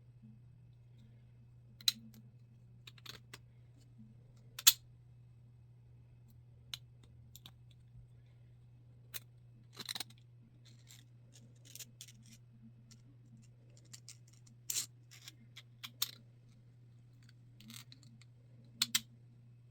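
Irregular sharp plastic clicks and short scrapes from a 3D-printed spiral fidget toy being handled and worked, over a steady low hum.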